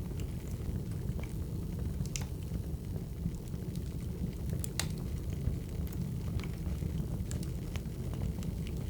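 Wood fire crackling: a steady low rumble with irregular sharp pops and snaps scattered through it, a few each second.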